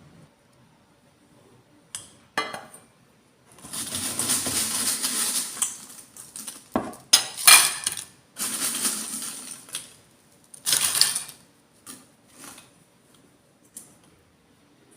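Cutlery clinking and scraping against a dish: a few sharp clinks, two longer stretches of scraping, and more knocks in between.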